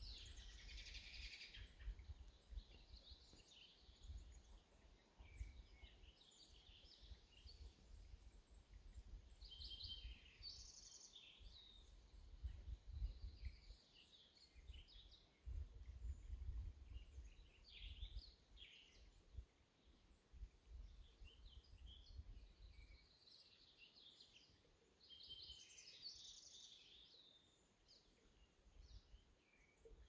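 Faint songbirds calling, short high chirps and trills that come and go every few seconds. A low rumble rises and falls underneath, strongest in the middle stretch.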